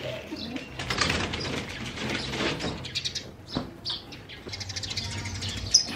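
Pigeons stirring and flapping their wings, with rustling and a couple of sharp clicks.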